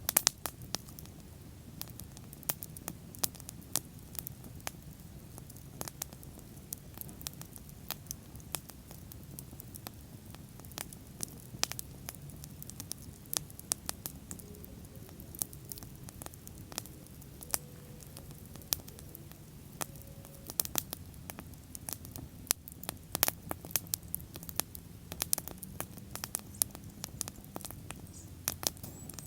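Wood bonfire crackling: irregular sharp pops and snaps over the low, steady rumble of the flames, the pops coming thicker in the second half.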